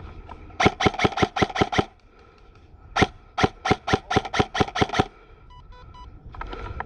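Airsoft electric rifle fired in quick succession: a string of about seven sharp shots at roughly six a second, a short pause, then about ten more.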